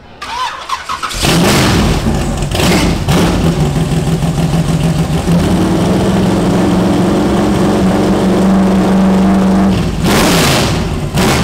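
Loud engine of a 1930 Ford Model A gasser with a 427 cubic-inch V8 running, starting about a second in. It holds a steady pitch, steps up to a higher steady pitch about halfway through, then sweeps down and back up near the end.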